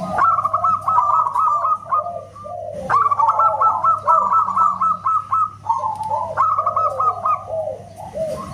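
Zebra doves (perkutut) cooing loudly in rapid chains of short repeated notes. Two pitches overlap, a higher and a lower voice. The phrases start afresh about three seconds in and again about six and a half seconds in.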